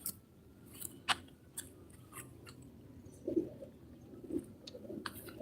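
Footsteps crunching on a dirt or gravel path at a walking pace, a sharp step about every half second.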